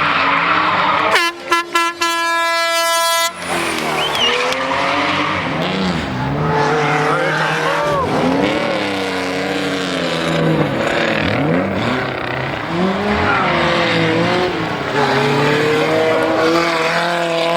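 Historic rally car engines revving hard and passing, their pitch rising and falling through gear changes. About a second in, a horn sounds for roughly two seconds at one steady pitch.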